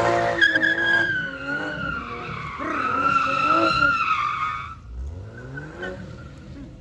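A car's tyres squealing as it is driven sideways in a drift, with the engine revving underneath. The screech wavers and slides lower in pitch, then stops abruptly about five seconds in, followed by a brief rising engine note.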